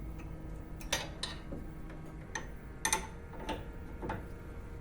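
Several sharp, irregular metallic clicks and taps from hand tools working on a car's suspension stabilizer link, bracing the link to loosen its nut.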